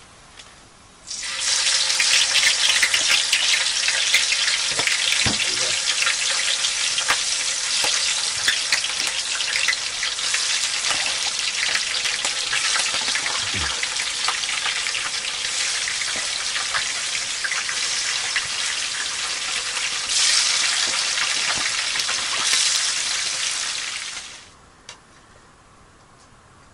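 Fish sizzling and crackling in hot oil in a frying pan. It starts abruptly about a second in and cuts off sharply near the end.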